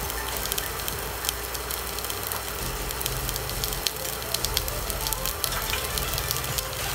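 Cubes of beef luncheon meat frying in hot oil in a cast-iron skillet: a steady sizzling hiss with scattered sharp crackles and pops.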